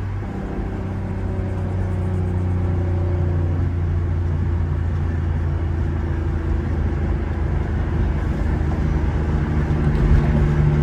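Car engine running at a steady low drone, with its pitch creeping slightly upward partway through.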